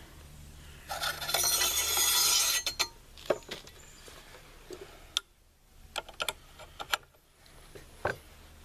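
A rifle handguard being worked onto an AR upper receiver: a scraping rub for about two seconds, then a series of scattered clicks and taps as the parts knock together.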